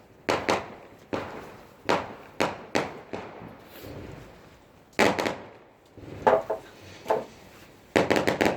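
Fireworks going off: a string of sharp, loud bangs and cracks at irregular intervals, each with a short fading tail, ending in a rapid burst of five or six cracks.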